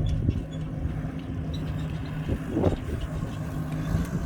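Vehicle engine running at a steady low hum, heard from inside the cab while driving.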